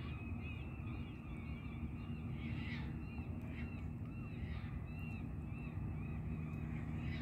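Birds chirping, many short calls following one another closely, over a low steady hum.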